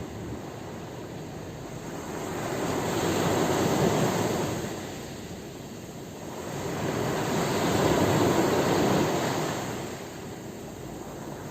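Sea waves breaking and washing in, two surges that swell up and ease away, the first peaking about four seconds in and the second near eight seconds.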